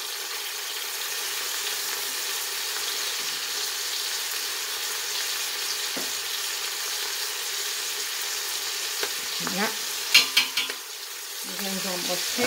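Meat, onion and spices sizzling steadily as they fry in a steel pot over high heat. A few quick clicks come about ten seconds in.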